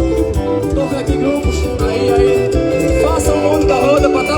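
Upbeat live dance-band music with a steady driving beat and melodic instruments.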